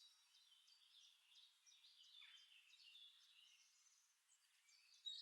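Near silence, with faint birdsong: scattered short high chirps from a background nature-sound recording.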